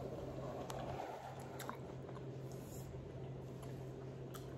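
Close-mouthed chewing of a mouthful of food: soft, wet mouth sounds with a few faint clicks, over a steady low hum.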